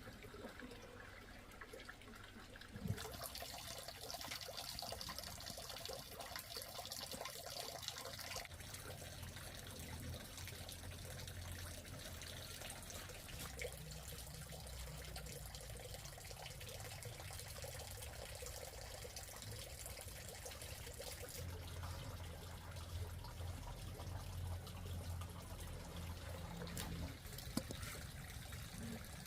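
Water trickling and splashing, fuller and brighter for about five seconds near the start, with a single knock as it picks up.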